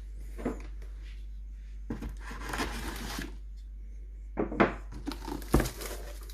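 Packaging being handled and opened: a stretch of rustling and tearing about two seconds in, then a few sharp knocks near the end.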